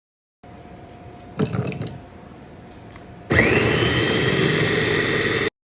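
Clattering knocks as the parts of an electric food chopper are handled, then the GANIZA chopper's motor starts about three seconds in, whines up to speed within a moment and runs steady while chopping salsa ingredients, before cutting off abruptly.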